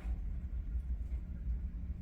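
Low steady background rumble, with only faint short budgie chirps just at the start and about a second in.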